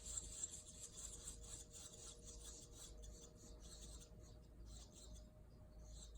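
Faint, high-pitched scratchy rustling that is strongest in the first few seconds and then thins out, over a faint steady hum.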